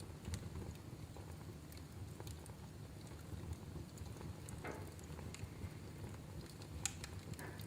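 Wood fire burning in a fireplace: a low steady rumble of flames with scattered crackles and pops, the sharpest snap about seven seconds in, and two brief hissing spurts.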